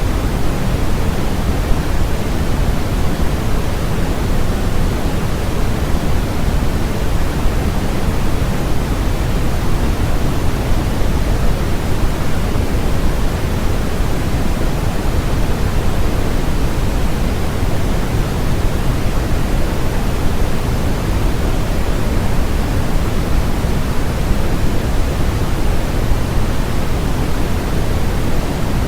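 Steady, loud synthetic noise track, sold as white noise. Its energy is weighted toward the low end, so it sounds like pink noise: an even, unchanging rush with no tones or events.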